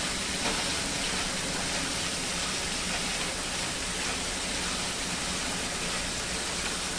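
Chicken pieces sizzling steadily in hot oil in a non-stick pan while being stirred with a silicone spatula.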